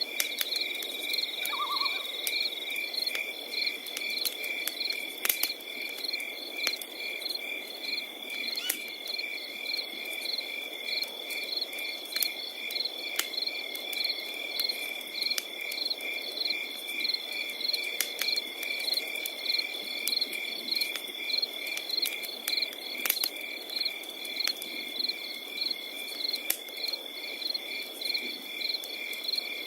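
Crickets chirping without pause, a steady high trill with pulsing chirps about twice a second, over a wood fire crackling with scattered sharp pops. A short call is heard near two seconds in.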